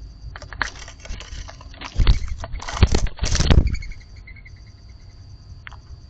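Mourning dove scuffling and rustling: a run of noisy bursts, loudest from about two to three and a half seconds in.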